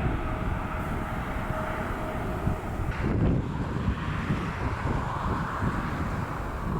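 Jet airliner engine noise with a low rumble throughout. A steady engine whine fades out about two and a half seconds in, leaving a broad jet roar.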